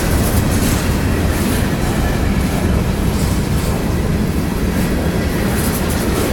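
Ferromex freight train rolling past, a steady loud rumble of wheels on rail.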